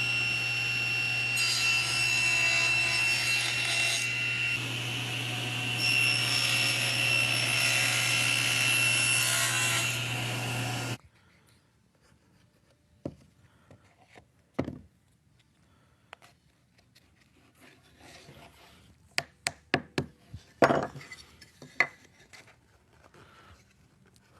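A woodworking power tool running steadily and cutting wood for about eleven seconds, then switched off and cutting out suddenly. After it come scattered light knocks and taps of wood pieces being handled.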